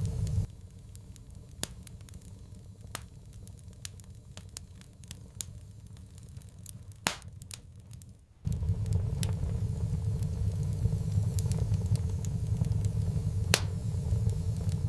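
Wood fire crackling, with irregular sharp pops scattered throughout over a low rumble. The rumble drops away about half a second in, leaving only the pops, and comes back suddenly just past halfway.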